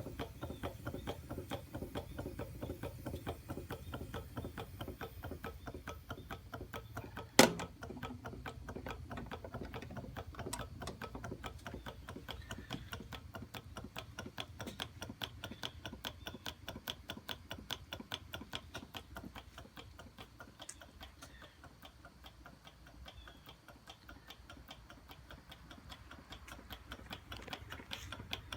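Hot-air engine running, its mechanism making a rapid, even clicking, with one sharp loud click about seven seconds in.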